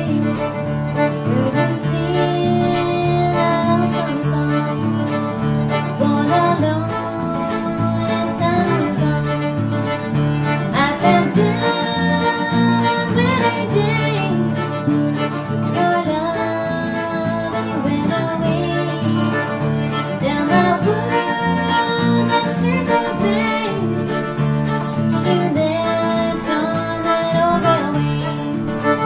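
A string band playing an instrumental passage in a country or bluegrass style. A fiddle carries the melody with sliding notes over strummed guitar and a steady, regular bass line.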